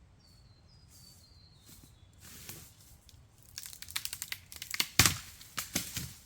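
A faint high bird call drifting down in pitch, then dense crackling and crunching that builds from about two seconds in and is loudest about five seconds in.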